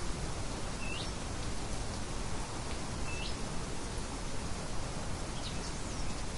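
Birds chirping over a steady rushing hiss of outdoor ambience. Two clear, short upswept chirps come about one second and three seconds in, and fainter ones come near the end.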